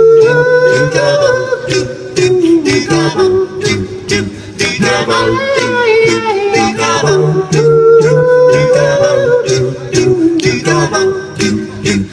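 Live band music: a gliding melodic lead line over a steady bass note and a regular drum beat.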